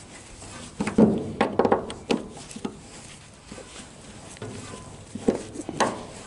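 Scattered knocks and clinks of hand tools at work, a screwdriver turned with a wrench on its end to back out screws from trailer boards: about half a dozen sharp hits, a cluster in the first three seconds and two more near the end.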